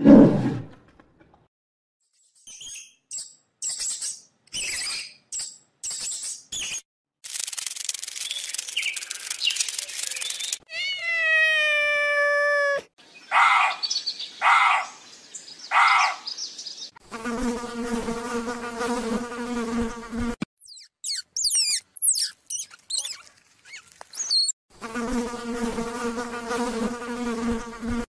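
A string of separate short animal sounds with gaps between them: high chirps, a hissing stretch, a pitched call that falls and then holds, three short calls, more high sweeping chirps, and twice a steady insect-like buzz lasting about three seconds.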